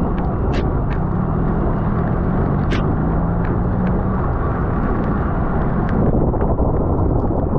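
Rushing wind and road noise on a bicycle-mounted camera's microphone while racing a road bike, with scattered light clicks from the bike.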